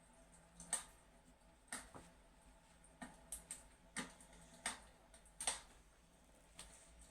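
Fireplace crackling: faint, sharp pops and snaps at irregular intervals, about one or two a second, over a low steady hum.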